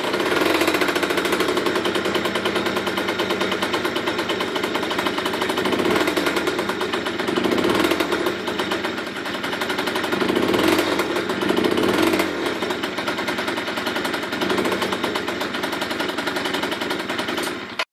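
Yamaha Aerox-type moped's two-stroke engine with a Polini Sport expansion-pipe exhaust, running with a fast rattling note and revved up and down several times.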